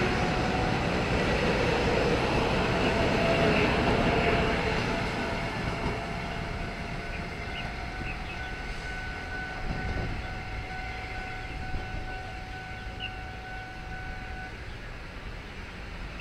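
TRA EMU500 electric commuter train pulling out and moving away, its running noise fading steadily. A faint steady whine sits over it through the middle and stops shortly before the end.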